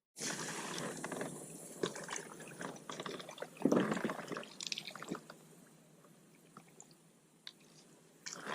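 Wet splashing, dripping and squelching for about five seconds, then it falls almost quiet.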